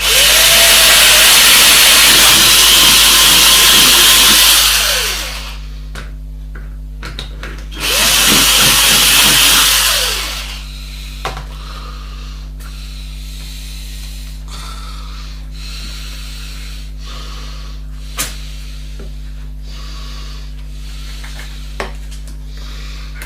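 Electric drill run twice, first for about five seconds and then for about two and a half, each time spinning up and winding down. A few light clicks follow.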